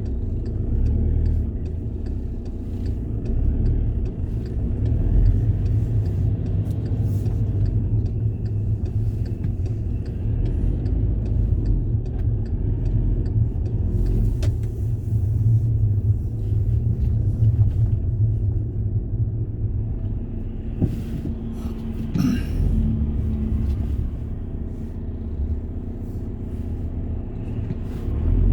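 Steady low rumble of a moving road vehicle, heard as a continuous drone with faint scattered clicks and one brief higher squeak about three-quarters of the way through.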